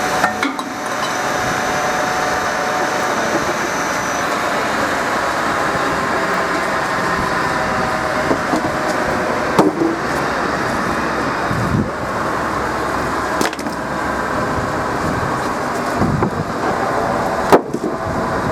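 Timber processing line running steadily, with a few sharp knocks of wood against the machinery, the loudest near the end.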